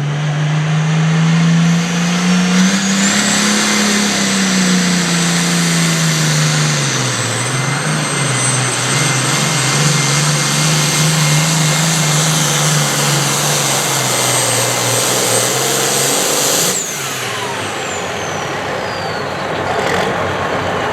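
A competition pulling vehicle's engine runs at full power through a hook down the pulling track. Its pitch climbs, sags about seven seconds in, then holds, with a high steady whistle over it. About seventeen seconds in the power comes off and the whistle falls away in a long downward glide.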